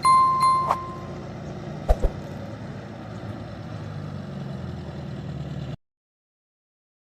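A steady electronic beep lasting about a second, over a low engine rumble that runs on and then cuts off abruptly into silence about six seconds in.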